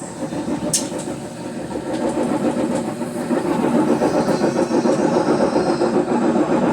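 Brastemp BWH15 washing machine running with a loud, rough mechanical noise from its drivetrain, growing louder about three seconds in, with a sharp click just under a second in. The noise points to a mechanical problem in the gearbox (câmbio); the drive belt has just been put back in place.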